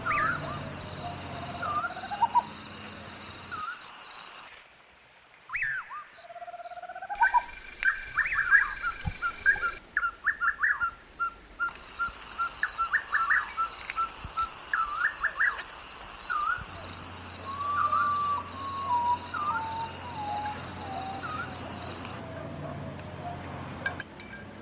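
Wild birds calling, with many short chirps and gliding whistles and one repeated dotted call, over a steady high-pitched drone. The background cuts out and back in abruptly several times.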